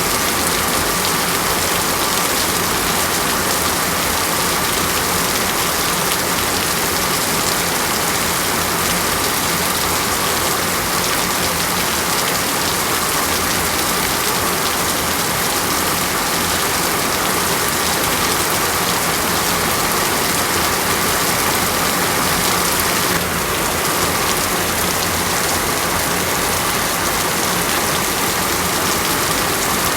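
Steady, heavy rain falling and pattering on a surface, an even continuous hiss.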